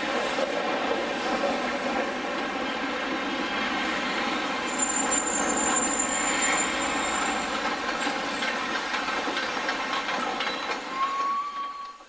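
A train rolling past on the track, its wheels clattering over the rails, with a high wheel squeal from about five seconds in; the sound drops off suddenly at the end.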